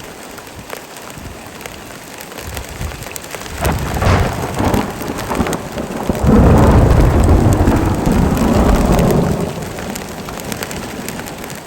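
Heavy rain falling steadily, with a peal of thunder: a first swell of rumbling about four seconds in, then a long, deep rolling rumble from about six to nine seconds before it fades back to the rain.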